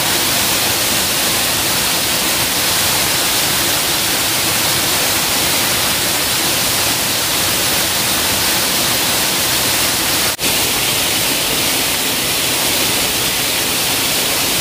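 Steady rush of a jungle waterfall, with a brief break about ten seconds in.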